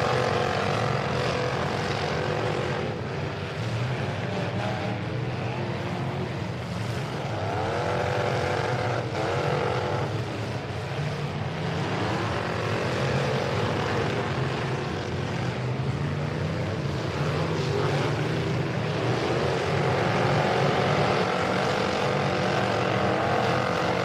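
Several demolition derby trucks' engines running together, revving up and down over and over.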